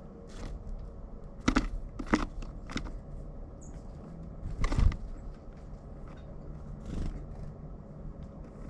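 Pileated woodpecker striking wood with its bill: about half a dozen heavy, irregularly spaced knocks, the loudest about a second and a half in and near the middle.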